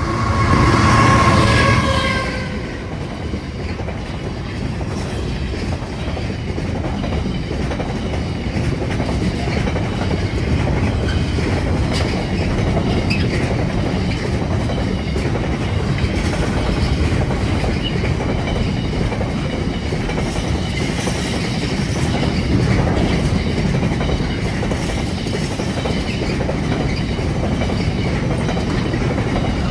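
A freight train's horn sounds for about two seconds at the start, the loudest moment. Then a long train of container wagons passes close by, with a steady clickety-clack of wheels on the rails.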